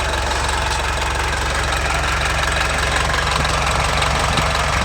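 Toyota 14B four-cylinder diesel engine idling steadily with an even, fast diesel clatter.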